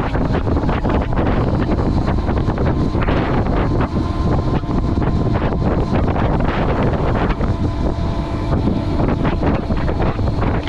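Wind buffeting the microphone while riding an electric dirt bike at street speed, with a faint steady whine from the electric motor through the middle of the stretch.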